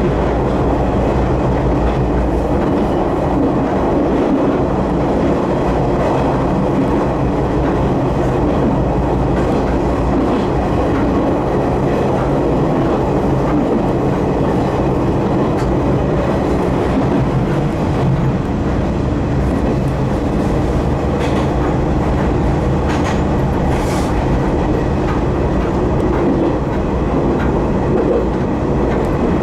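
Electric commuter train running along the track, heard from inside the leading car: a steady motor and gear hum over rolling noise, with occasional wheel clicks.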